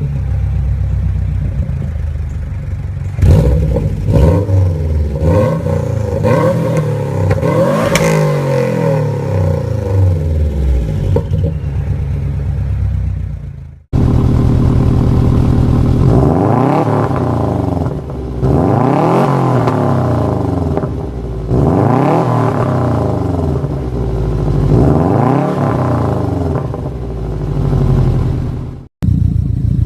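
Subaru Impreza WRX STI's turbocharged flat-four boxer engine revving through its exhaust, the pitch sweeping up and down. After a cut about halfway through come about five revs in a row, each rising and falling.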